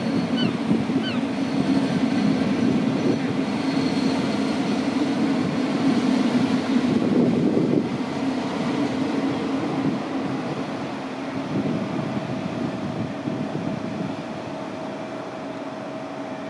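DB double-deck regional push-pull train pulling slowly into the platform, control car leading: a dense rumble of wheels and running gear that eases off over the second half as the train slows. A faint steady hum sets in near the end.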